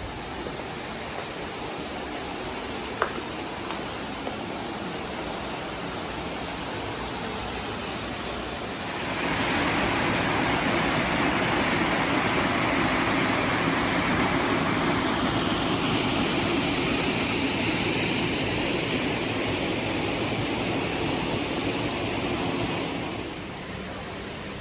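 Steady rush of falling water from a waterfall. It grows louder about nine seconds in and falls back near the end.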